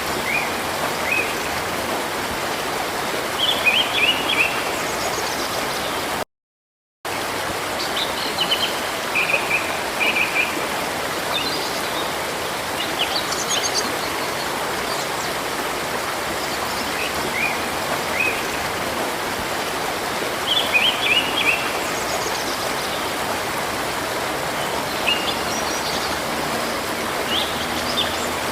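Steady rushing of a river, with small birds chirping over it in short groups of quick high notes, a few seconds apart. The sound cuts out completely for under a second about six seconds in.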